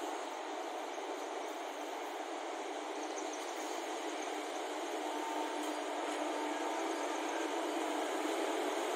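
Indian Railways electric locomotive approaching at the head of a train: a steady rushing rumble of the running train that grows slowly louder, with a faint steady tone appearing about halfway through.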